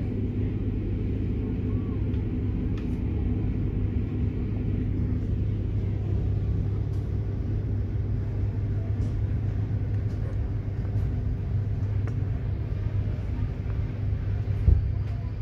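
Cabin running noise of a Bombardier Régio2N electric multiple unit under way: a steady low rumble of wheels on track, with a faint steady hum above it and a few small clicks. A single sharp knock comes near the end.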